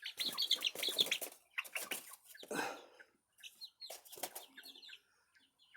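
Chicks peeping, with short bursts of wing flapping as they flutter up onto a roost.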